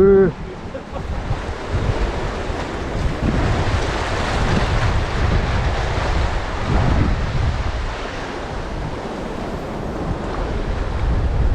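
Wind buffeting the microphone in uneven low gusts over the steady wash of sea surf against the rocks.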